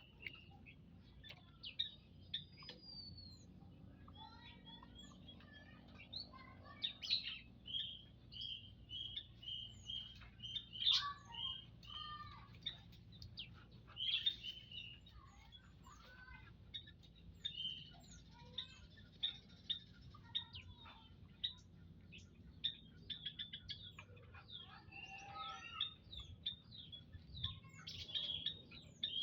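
Small prenjak lumut birds in an aviary chirping and calling, a mix of short sharp chirps and whistled notes, with a quick run of evenly repeated high notes about a third of the way in.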